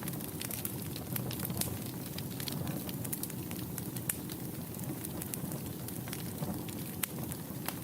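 Wood fire burning in a fireplace: a steady low rush of the flames with many sharp, irregular crackles and pops throughout.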